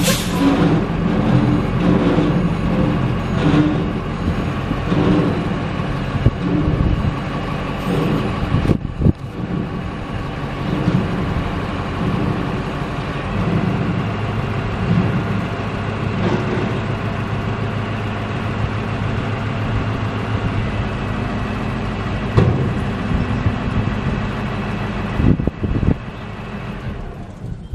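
Dump truck's diesel engine running steadily, its pitch shifting a few times as the truck is worked through its controls, then falling away near the end.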